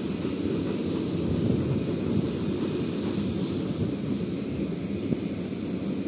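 Passenger train's last coach rolling away over the station tracks: a steady low rumble of wheels on rails.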